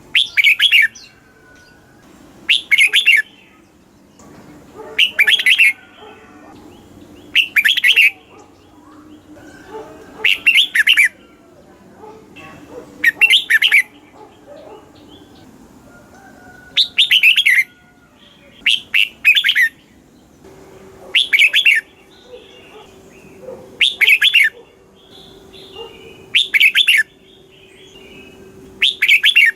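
Red-whiskered bulbul singing short, loud song phrases, about one every two to three seconds, with one longer pause about halfway through. This is the kind of song played to caged bulbuls to stir them up and teach them to sing.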